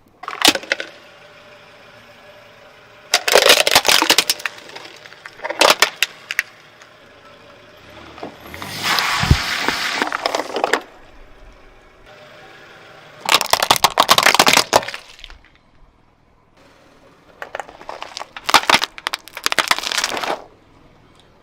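Objects cracking, crunching and breaking as they are crushed under a car tyre, in several separate bursts with short pauses between.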